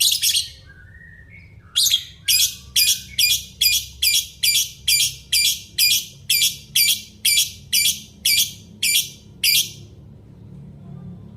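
Parrot calling: one harsh screech, a few soft whistles, then a long run of shrill screeches repeated about twice a second that stops shortly before the end.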